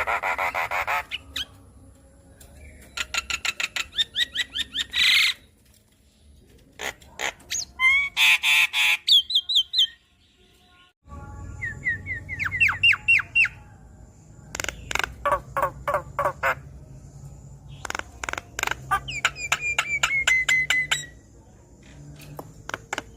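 Javan myna (jalak kebo) singing in bouts: fast runs of rapidly repeated harsh notes and squawks, mixed with short series of whistled notes sliding in pitch, separated by brief pauses.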